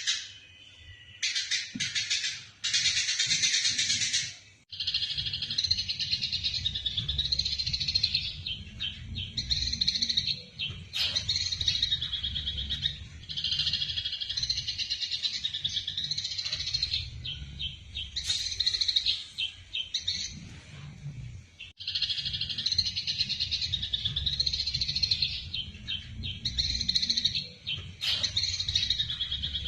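Eurasian tree sparrows chattering in fast, dense runs of chirps, breaking off briefly every few seconds: the agitated calls of sparrows squabbling. A steady low rumble runs underneath.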